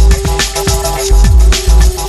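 Electronic bass music in a broken beat: deep kick drums that drop in pitch into heavy sub-bass, hitting unevenly about every half second, under a held synth note and ticking hi-hats.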